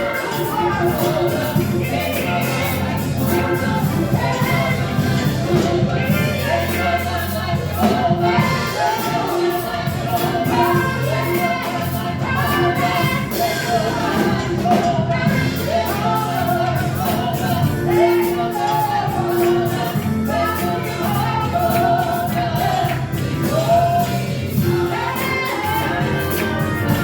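Live church praise-and-worship music: a group of voices singing a gospel-style worship song over steady instrumental backing.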